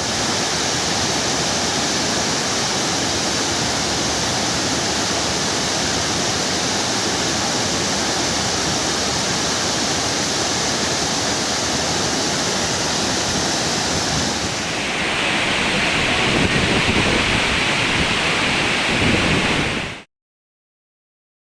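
Large waterfall: a steady rush of falling water. Near the end the rush turns hissier, then cuts off abruptly into silence.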